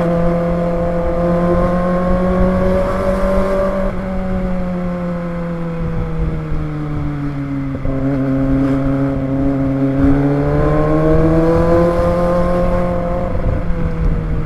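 Kawasaki ZX-25R's 249 cc inline-four engine running under way, its pitch climbing and falling with the throttle, breaking off sharply about 4 and 8 seconds in as gears change, then climbing again.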